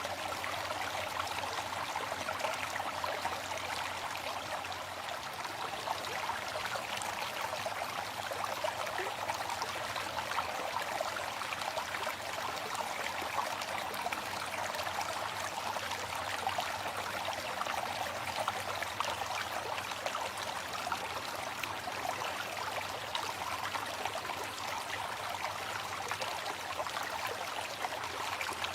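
Waterfall: water falling and splashing in a steady rushing hiss, without music.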